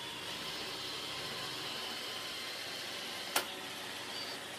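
Roomba 650 robot vacuum running as it seeks its charging dock, a steady whirring hiss, with one sharp click a little over three seconds in.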